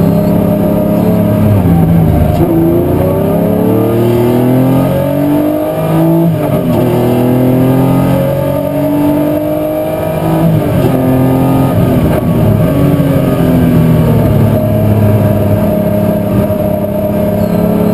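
Historic muscle car's race engine running hard under racing, its revs climbing and then dropping sharply several times.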